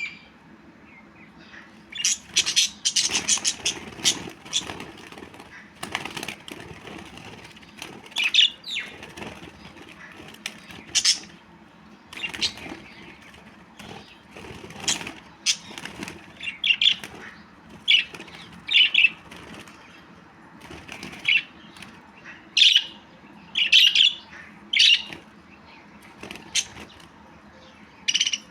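Budgerigars chirping and chattering in short, irregular high-pitched bursts, some in quick clusters.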